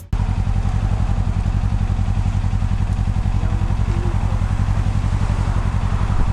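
Kawasaki motorcycle engine idling steadily with an even, rapid pulsing beat.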